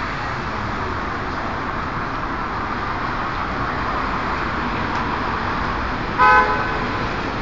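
Steady road traffic noise, with one short vehicle horn beep a little after six seconds in.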